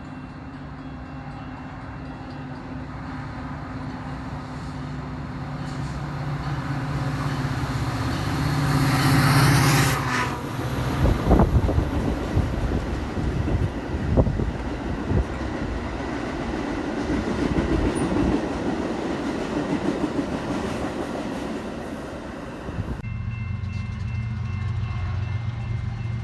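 A train approaches and passes: the locomotive's engine grows louder to a peak about nine to ten seconds in, then the wheels click and knock over the rail joints as the cars roll by. About 23 seconds in the sound cuts abruptly to a different steady tone.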